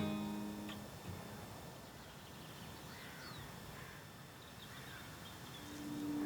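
Faint bird calls, short gliding chirps, over quiet outdoor ambience, after the last acoustic guitar notes fade in the first second; a soft sustained music tone swells in near the end.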